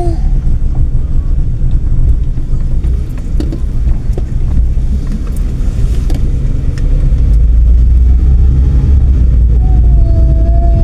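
A moving car's rumble of engine and tyres on the road, heavy in the low end and getting louder about two-thirds of the way through. A steady pitched hum comes in near the end.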